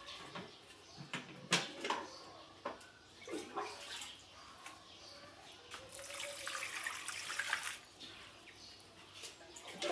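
Water running from a tap for a couple of seconds, with scattered clicks and knocks of things being handled.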